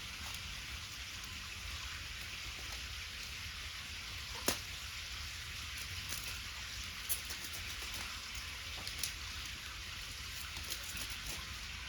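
Wood bonfire crackling: a steady hiss with scattered sharp pops, the loudest about four and a half seconds in.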